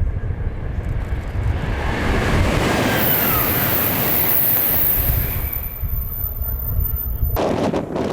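923-series Doctor Yellow Shinkansen passing at speed: a rushing whoosh that builds over a couple of seconds and holds with a high thin whine, over heavy wind buffeting on the microphone. It cuts off abruptly near the end to a run of rapid sharp clicks.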